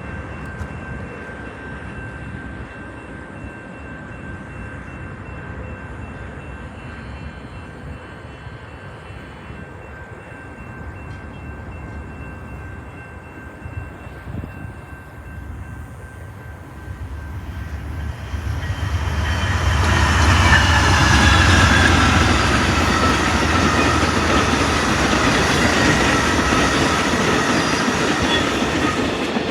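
A train approaching and passing close by: a steady rumble, then a little past halfway the locomotive's low rumble swells to its loudest, and the cars follow, rolling past with steady clatter and thin, wavering wheel squeal.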